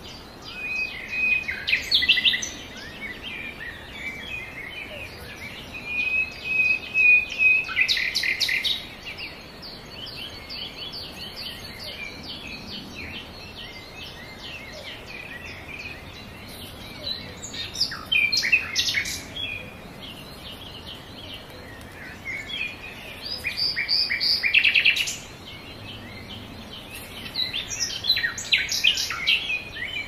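Birds singing: loud song phrases come five times, each lasting two to three seconds, over a steady background chatter of high chirps from other birds.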